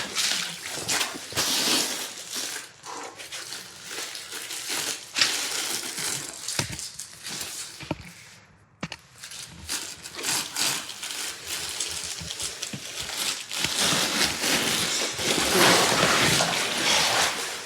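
Close rustling and handling noise of gear and clothing, with scattered sharp clicks, briefly dropping away about eight seconds in.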